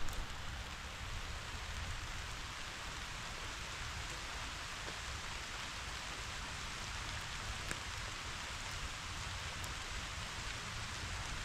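Steady summer rain falling on a grassy wildflower meadow: an even hiss with a few faint drop ticks, over a low rumble.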